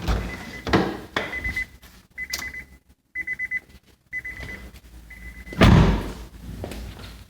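Honda Accord warning chime beeping about once a second, with a few clicks and knocks, then a car door shuts with a loud thunk near the end and the beeping stops.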